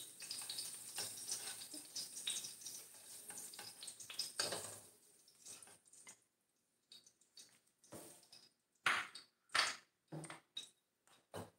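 Carrot cubes sizzling in hot oil in a wok while a wooden spatula scrapes and scoops them out. After about five seconds the sizzle fades, leaving scattered ticks and taps from the near-empty pan.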